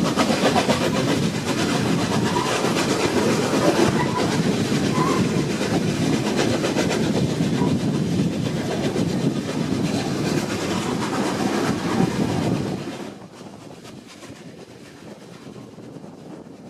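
Heritage steam-hauled passenger train running past, its carriage wheels clickety-clacking over the rail joints. The noise drops sharply about thirteen seconds in.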